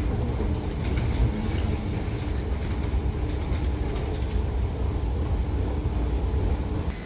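SBB passenger train running on the rails, heard from on board: a steady, dense low rumble of wheels and carriage, with a few faint knocks.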